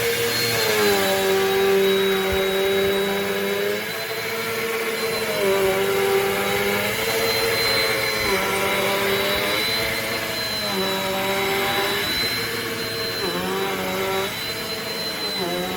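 Amazon Basics upright bagless vacuum cleaner's motor running loudly with a high whine. Its pitch dips and recovers every second or two.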